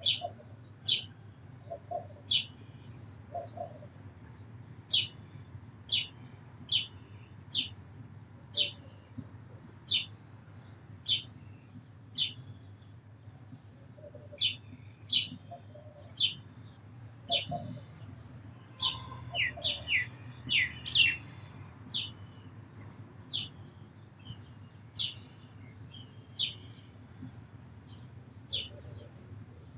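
House sparrow chirping repeatedly: short, sharp, downward-sweeping chirps about one a second, with a quicker run of chirps around twenty seconds in.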